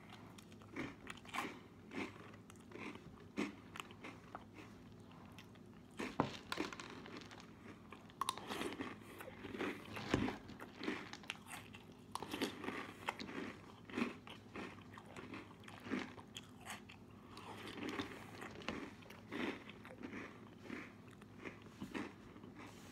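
A person chewing a mouthful of crunchy cereal, with repeated crunching chews about one or two a second, sparse at first and thicker and louder from about a third of the way in.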